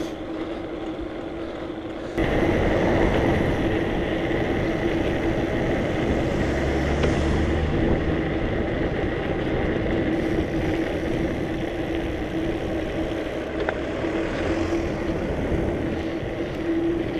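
Steady street traffic and road noise heard from a bicycle on city roads, with a constant hum under it. The sound gets louder about two seconds in and stays even after that.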